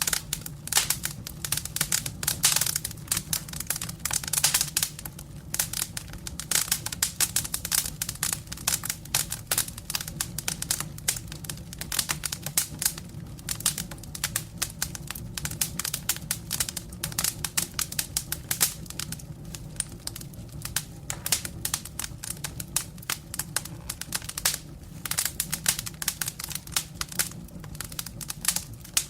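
Firewood burning in a fireplace: dense, irregular crackling and popping of the logs, with a steady low rumble underneath.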